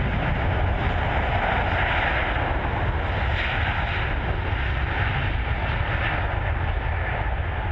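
Airbus A380's four jet engines running as the airliner flies past: a loud, steady rushing noise with no breaks.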